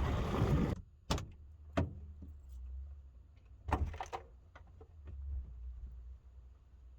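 Wind roaring on the microphone cuts off abruptly under a second in. A few scattered sharp knocks and clicks follow, with a small cluster of them midway.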